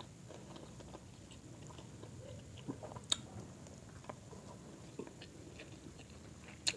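Faint close-up chewing and eating sounds of people eating grilled chicken and rice by hand, with scattered small clicks and two sharper clicks, about three seconds in and near the end.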